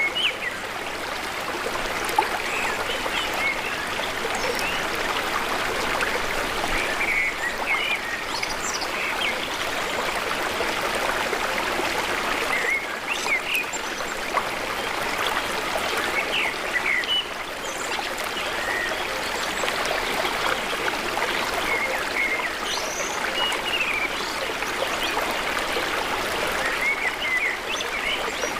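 Flowing water, a steady trickling rush, with short bird chirps scattered through it.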